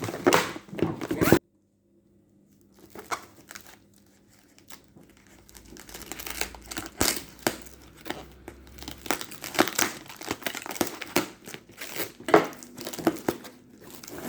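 Packaging crinkling and tearing as it is pulled off by hand, in a dense string of short rustles and rips. It cuts off suddenly about a second in and starts again a second or so later.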